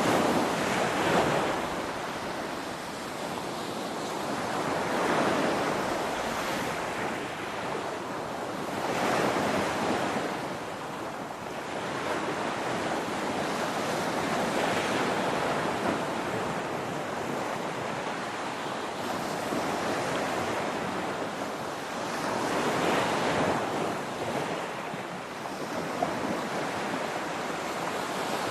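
Ocean surf: waves breaking on a shore as a continuous rushing hiss that swells and eases every few seconds.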